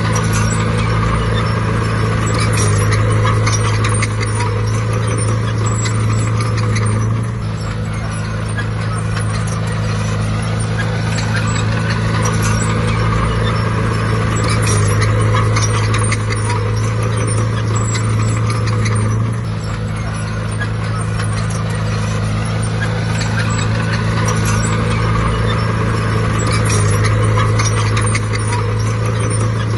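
Bulldozer's diesel engine running steadily under work, its note shifting every twelve seconds or so, with rapid clicking and clatter over it.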